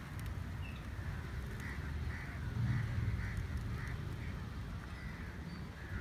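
Birds calling in a string of short, harsh calls, about two a second, lasting a few seconds, over a low steady rumble of wind and surf.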